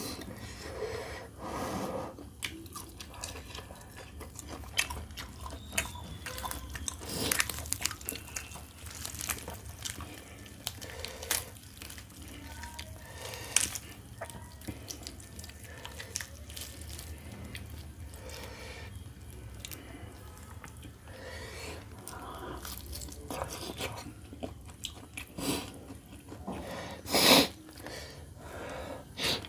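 Chewing and biting of roast chicken, with hands tearing the meat apart: many scattered short wet clicks and smacks, and one louder crunch near the end.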